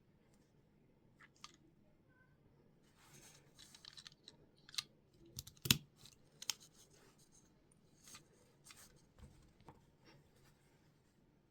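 Lego pieces being handled: irregular light plastic clicks and scratchy rustling, busiest in the middle, with one sharper click about halfway through.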